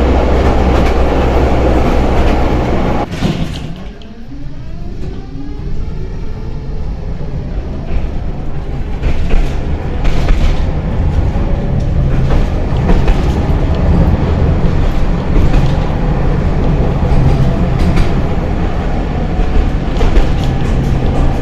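Tatra tram running on the rails with a steady rumble. The rumble drops away sharply about three seconds in, then builds again with scattered knocks and a faint rising motor whine.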